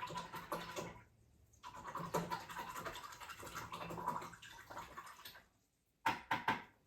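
A paintbrush being scrubbed and swished in a cup of rinse water, the bristles scratching against the container, with a short pause about a second in. A few sharp taps follow near the end.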